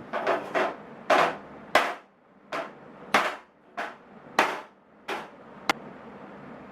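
Hammer knocking on the aluminium toolbox: about ten sharp blows, irregularly spaced, each with a short ring.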